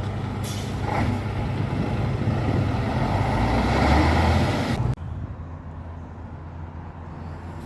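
Scania 112 truck's diesel engine running, with a brief hiss of air about half a second in. About five seconds in the sound cuts off abruptly, leaving a quieter steady low hum.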